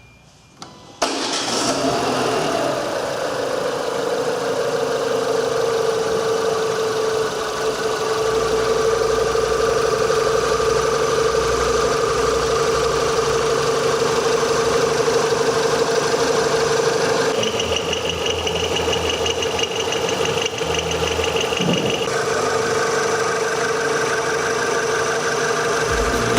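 Renault Scenic's K4M 1.6-litre 16-valve petrol engine started about a second in; the revs flare briefly, then settle into a steady idle. A thin high whine joins for a few seconds past the middle.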